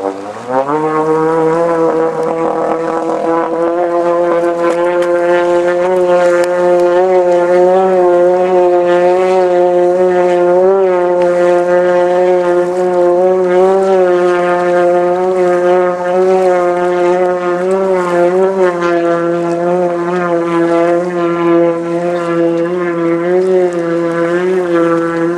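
Subaru engine of a homemade amphibious car running at a steady speed under way on the water, a droning hum; it dips briefly in pitch at the very start and picks back up.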